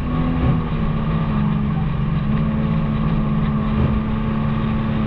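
Infiniti G37's 3.7-litre VQ37VHR V6 running under steady throttle while driving, with a steady low exhaust drone. It is loud because the muffler and resonator have been deleted.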